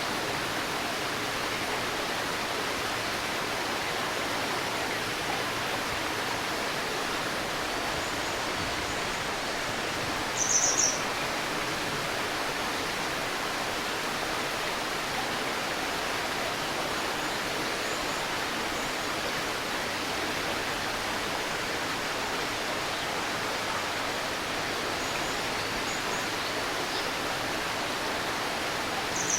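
A stream babbling steadily, with a bird's short high-pitched call of a few quick notes about ten seconds in and again at the very end, and a few faint chirps between.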